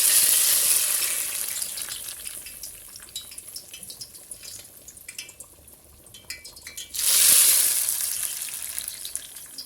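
Two loud bursts of sizzling, one at the start and one about seven seconds in, each dying away over a couple of seconds, as spoonfuls of oil go into the pot of bubbling chicken.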